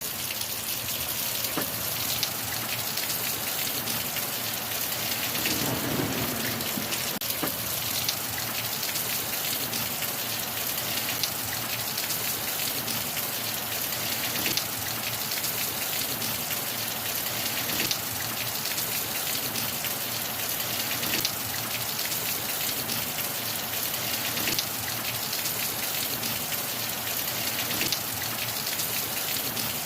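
Steady rain falling, with scattered louder single drops striking a surface. There is a short low rumble about six seconds in.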